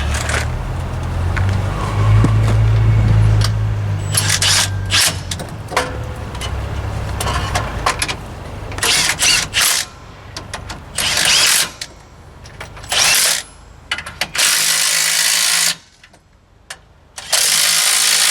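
A power wrench running in short bursts, five of them in the second half, as it runs down and tightens the U-bolt nuts that clamp a rear axle to its leaf springs. A low rumble fills the first few seconds.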